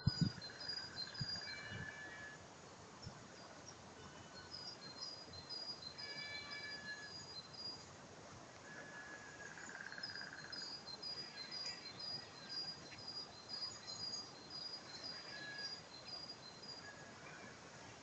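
Faint songbirds singing in spring woodland: long runs of short, high, thin notes repeated about three to four times a second, with a few lower, drawn-out notes in between.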